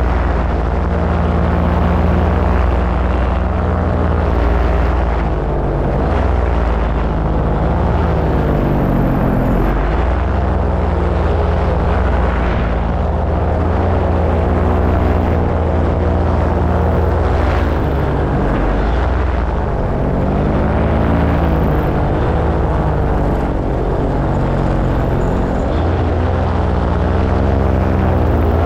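Paramotor engine and propeller running in flight, a loud continuous drone whose pitch drifts up and down as the throttle changes, over a broad rushing noise.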